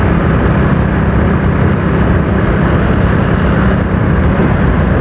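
Motorcycle running steadily while being ridden, a constant low engine hum under loud road and wind noise on the microphone.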